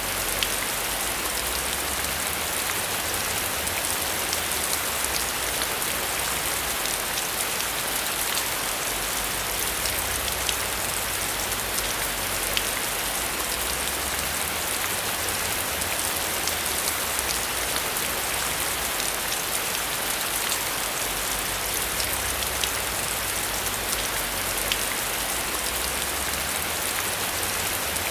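Heavy rain falling steadily, with a dense hiss and many sharp drop ticks scattered through it.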